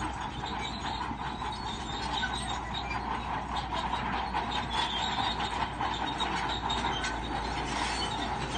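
Shantui crawler bulldozer working, its steel tracks clanking and squealing steadily over the engine's running.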